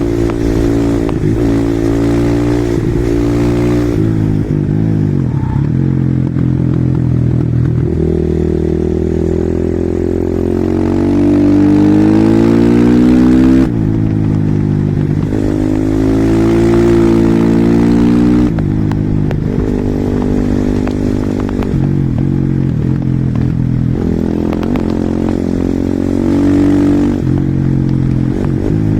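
Husqvarna SM 450R single-cylinder four-stroke supermoto engine being ridden hard, revving up through the gears again and again. After climbs in pitch the note cuts off sharply, once about halfway through and again a few seconds later. Between the climbs it falls away as the throttle closes.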